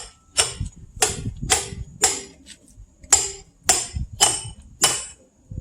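Hammer striking a steel splitting wedge set in a log: eight sharp, ringing metal-on-metal clanks at about two a second, with a short pause about halfway through.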